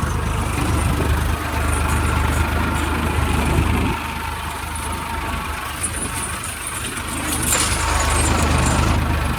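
Farmtrac 60 PowerMaxx tractor's diesel engine running steadily under load in second gear, pulling a plough. The engine sound eases about four seconds in and swells again near the end.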